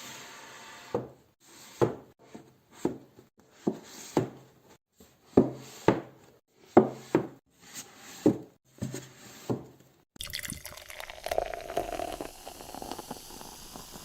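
Liquid dripping in a dozen or so separate plops, irregularly spaced about one every half to one second. About ten seconds in it cuts to a steady fizzing hiss.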